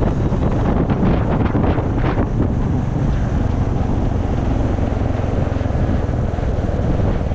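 Wind buffeting the microphone: a steady rushing noise, heaviest in the low end.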